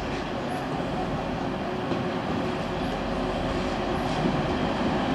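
A train moving through the station, a steady rumble slowly growing louder.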